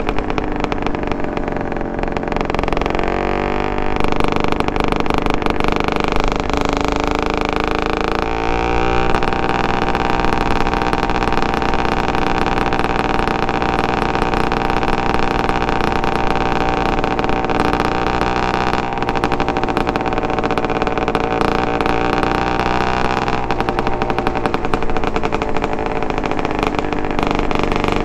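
Suzuki TS125R's 125 cc single-cylinder two-stroke engine with a DEP aftermarket exhaust, running as the bike is ridden. The engine note steps to a new pitch about four and eight seconds in, holds steady for a long stretch, then changes again near the end.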